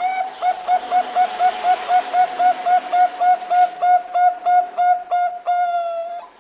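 Zebra dove (Bangkok-type perkutut) singing: a fast run of short cooing notes, about four a second, ending on one longer drawn-out note.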